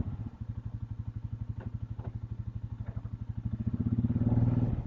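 Engine of the Ranger running in a steady rapid pulse as the vehicle is pulled forward, swelling louder with throttle near the end and then easing back.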